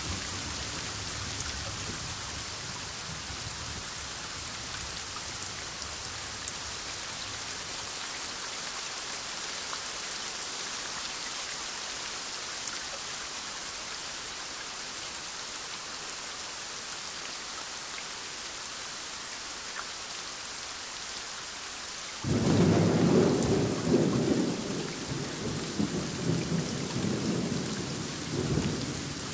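Steady heavy rain falling throughout, with the tail of a low thunder rumble fading in the first few seconds. About three-quarters of the way through, a loud clap of thunder breaks out suddenly and rolls on in pulsing rumbles to the end.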